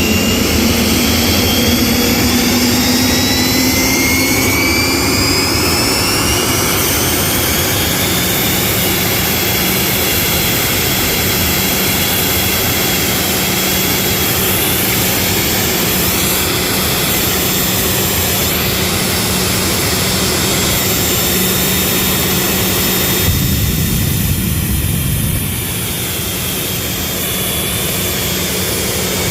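Jet dragster's jet engine running loud. Its whine climbs steadily in pitch over the first few seconds as it spools up, then holds steady, dropping a little in level near the end.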